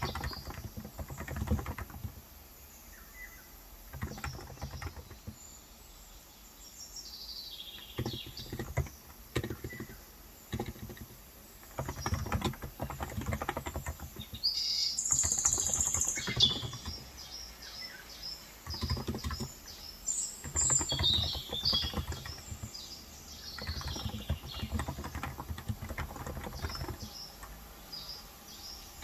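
Typing on a COX Endeavor electrostatic capacitive keyboard with light 35 g keys, in bursts of rapid key presses with short pauses between them. Birds chirp several times over the typing, loudest about halfway through.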